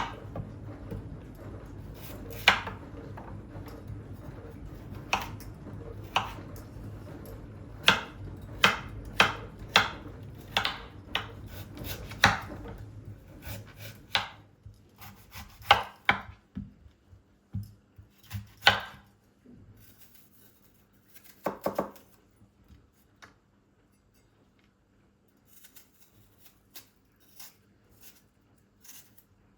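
Kitchen knife chopping on a cutting board: irregular sharp knocks, coming in quick runs of about two a second in the middle and sparser later. A low steady hum underneath stops about halfway through.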